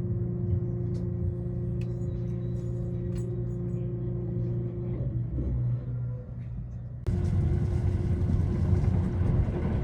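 JR East E353 series limited express train running, heard from inside: a steady rumble with a constant hum. About seven seconds in it switches abruptly to a louder, rougher rumble of the wheels on the track.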